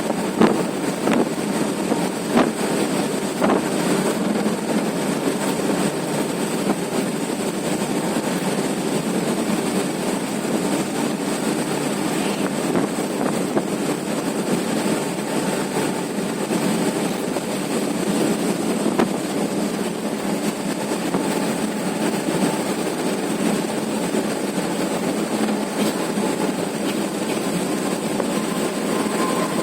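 Truck driving along a highway with steady engine and road noise, and a few sharp knocks, mostly in the first few seconds.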